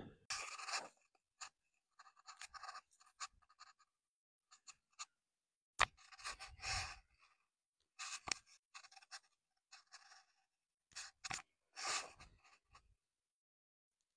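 Wild onion plants being pulled up and handled: short, irregular bursts of rustling, tearing and scraping with silent gaps between them.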